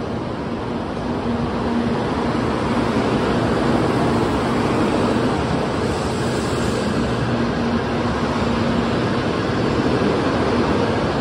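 N700A Shinkansen train running into the station alongside the platform: a steady rush of wheels and air that swells over the first couple of seconds, with a low steady hum under it.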